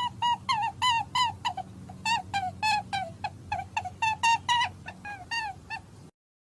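An animal giving a rapid series of short, pitched calls, about three to four a second, each dipping slightly in pitch, over a steady low hum. The calls cut off suddenly near the end.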